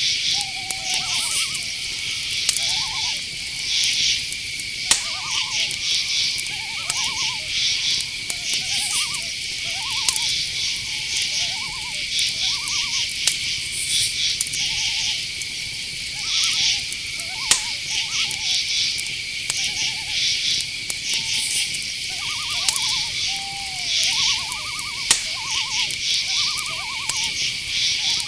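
Night forest insect chorus: crickets keep up a steady high trill with pulsed chirps above it. Many short calls, each under half a second, repeat throughout, with a few sharp clicks scattered among them.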